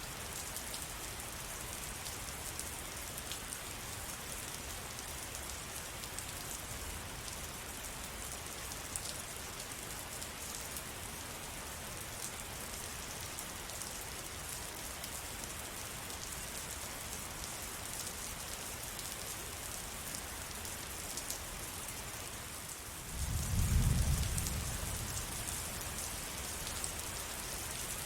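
Steady rain falling on surfaces, a dense even patter of drops. Near the end, a deep low rumble swells up suddenly and fades away over a few seconds.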